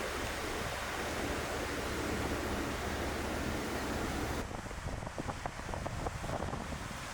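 Wind blowing across the microphone, a steady rushing noise with a low rumble underneath. About four seconds in the rushing drops and a few light clicks follow.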